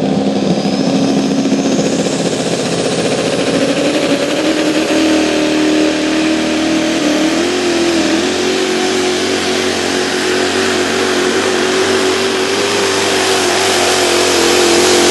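A pulling truck's engine held at full throttle under heavy load for a long pull, its note climbing slowly and steadily.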